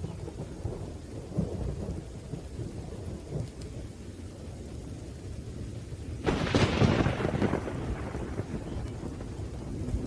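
Thunderstorm with steady rain and low rolling thunder; about six seconds in a sharper, louder thunderclap crashes in and rumbles away over the next few seconds.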